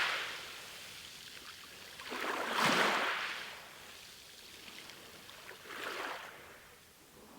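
Ocean waves washing onto a shore: a wave swells and breaks loudest about two and a half seconds in, and a smaller one follows around six seconds, with a low steady wash between them.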